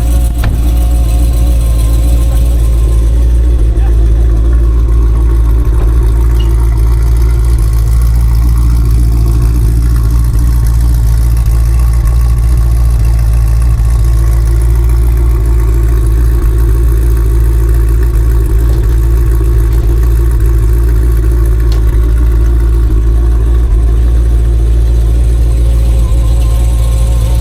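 Hemi V8 engine of a Dodge Magnum idling steadily, a loud, even low rumble.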